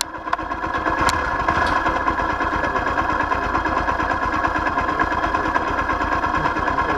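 Vehicle engine idling steadily, with a steady whine alongside it and a light click about a second in.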